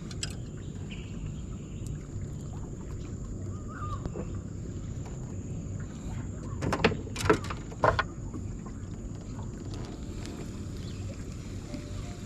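Steady low rumble, with a short cluster of sharp knocks and clatters about seven seconds in, typical of fishing gear being handled and packed away on a boat.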